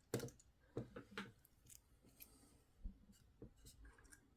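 Faint, scattered clicks and light rubbing of small plastic toy parts being handled, with a sharper click about a second in and another near three seconds.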